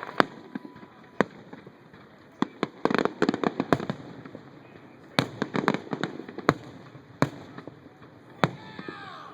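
Fireworks display: sharp bangs of bursting shells, single reports spaced a second or so apart, with two quick runs of rapid crackling pops about three and about five and a half seconds in.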